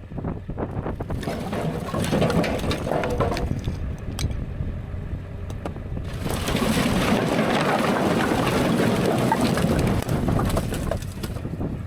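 Strong gusty wind buffeting the microphone as a low rumble, with a stronger, hissier gust from about halfway through that eases off near the end.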